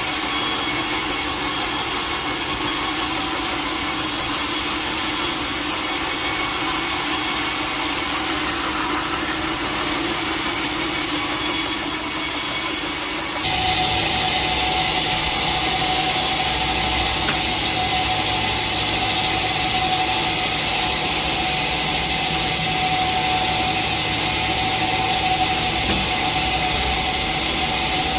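Sawmill blade running steadily through a log, a steady whine over machine noise. The sound changes abruptly about halfway through to a different steady whine.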